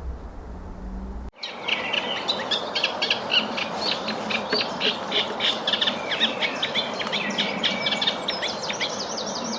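Reed warbler singing its rhythmic, chattering song of rapid repeated notes, starting about a second in, with a wren singing in the background over a steady outdoor hiss.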